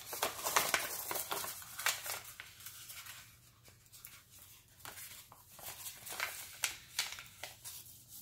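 A sheet of paper rustling and crinkling as it is handled and folded, with irregular short crackles, busier in the first couple of seconds and sparser after.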